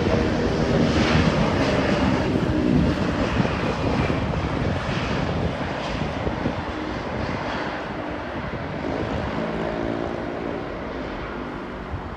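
Jet airliner's engines rumbling as it passes low on approach, loudest in the first couple of seconds and then slowly fading away.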